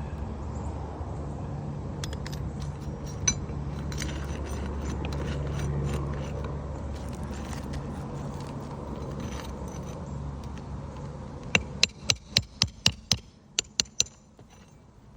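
Tools working roofing nails out from under asphalt shingles: scattered scrapes and clicks, then from near the end a quick run of about eight sharp metal taps, roughly three or four a second, over a steady low drone.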